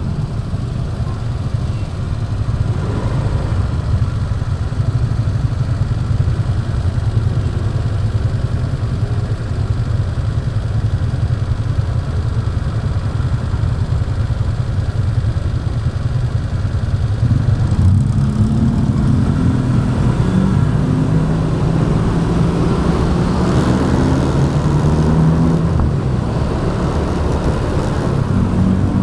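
A motorbike riding in traffic, its engine running under a steady low rumble. From about two-thirds of the way through, an engine note rises and falls as it accelerates.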